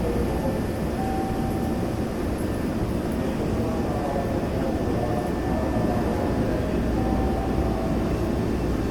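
Steady rumble and hum inside a Semboku Rapid Railway 5000 series commuter train car, with the air conditioning running. The train appears to be standing at a station with its doors open, since no traction motor whine rises or falls.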